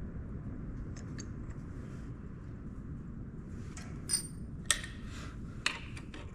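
Steel tool holder and lathe parts being handled, clinking together: a few light clicks, then three sharp metallic knocks near the end, the first ringing briefly, over a steady low hum.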